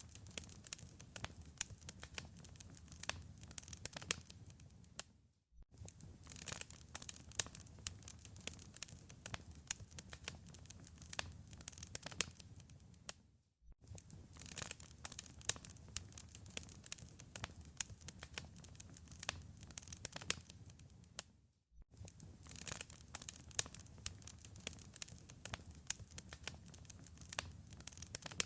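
Wood fire crackling in a fireplace: dense, irregular pops and snaps over a low rumble, broken by a brief silent dropout about every eight seconds.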